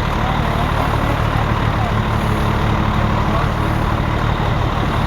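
Fire engine's engine running steadily, a low, even hum.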